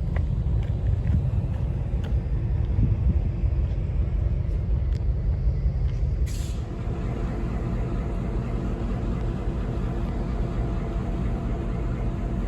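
A train rumbling steadily, with a short hiss of released air about halfway through.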